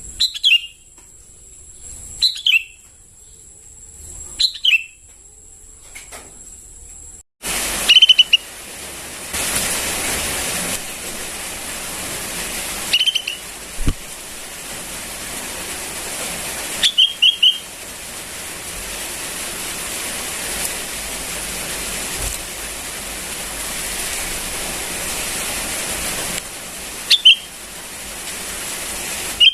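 Juvenile sooty-headed bulbul calling: short, falling chirps about every two seconds. About seven seconds in, a steady hiss comes up suddenly, and the chirps continue more sparsely over it.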